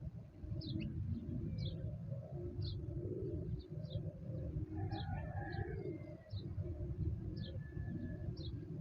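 Birds calling outdoors: short high chirps repeating about once a second, with some lower, longer calls in the middle, over a steady low rumble.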